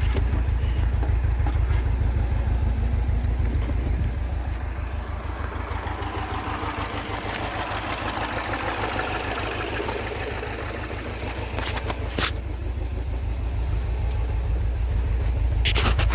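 Mini Cooper engine idling steadily with an even low pulsing rumble, and a few sharp clicks near the end.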